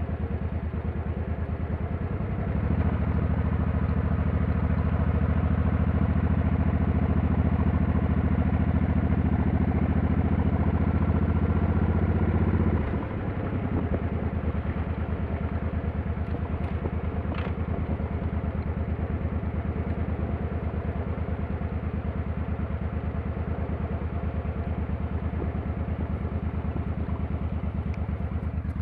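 Motorcycle engine running steadily. About two seconds in it comes up louder and holds there for about ten seconds, then drops back suddenly to a quieter, even running.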